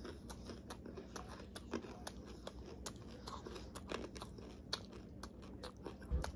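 A person chewing Tostitos tortilla chips close to the microphone: a faint, irregular run of small crunches and clicks, with a low thump near the end.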